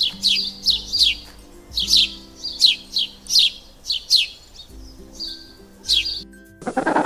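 A small bird chirping: a dozen or so short, high chirps that each slide down in pitch, coming in uneven groups.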